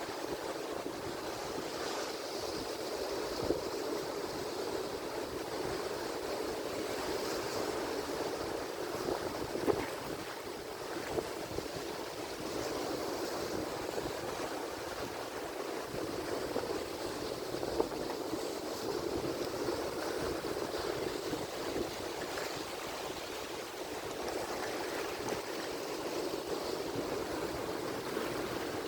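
Atlantic Ocean surf washing against the shore, a steady rushing hiss of water that swells and eases gently, with a few brief sharper peaks.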